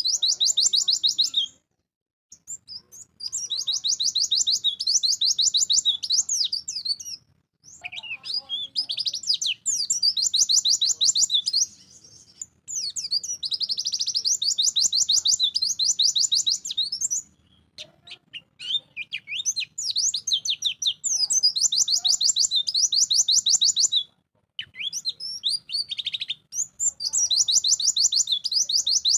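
White-eye (pleci) singing in full, fast song: long runs of rapid, high chattering twitters lasting several seconds each, broken by brief pauses about every five seconds.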